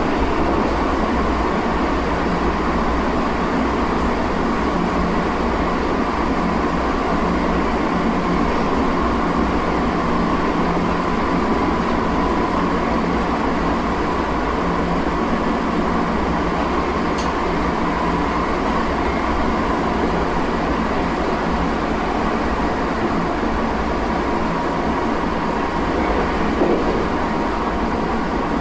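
Running sound inside a Tokyo Metro 8000 series armature-chopper train at speed: a steady rumble of wheels on rail, with a faint steady whine over it.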